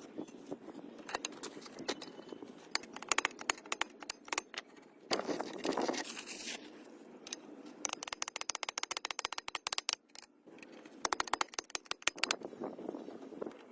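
Metal clinking and scraping from hand-tool work on car parts, with a longer scrape partway through and runs of rapid clicks later on.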